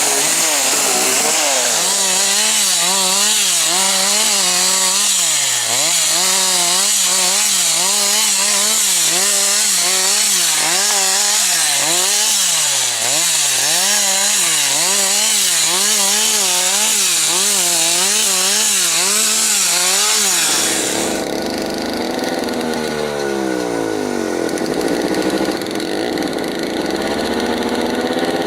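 Two-stroke chainsaw running at high revs while cutting timber, its pitch dipping and recovering again and again as the chain bites into the wood. About 20 seconds in, the high whine stops abruptly and a lower engine sound takes over, falling and rising in pitch.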